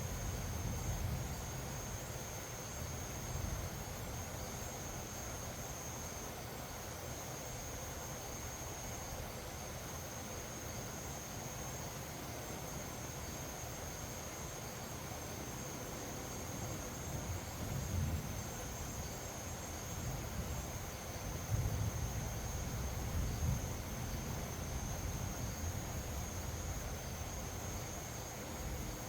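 Insects trilling steadily at one high pitch over a low rumble of wind gusting on the microphone, with stronger gusts several times, most of all about two-thirds of the way through.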